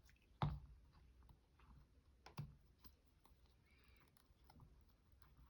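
Near silence with a few soft clicks and taps of small objects being handled, two of them more distinct, about two seconds apart.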